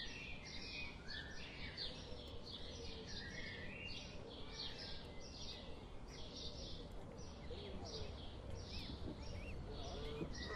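Birds chirping over and over in short high notes, over a steady low background rumble.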